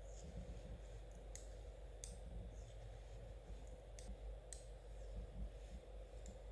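Knitting needles clicking lightly against each other as stitches are worked, a handful of faint, irregular clicks over a steady low background hum.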